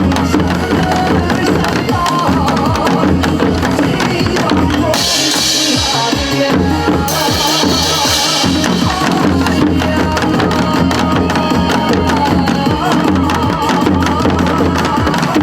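Janggu hourglass drums played by an ensemble in a steady rhythm over accompanying song music. About five seconds in, a bright hissing wash comes in twice, each time for about two seconds.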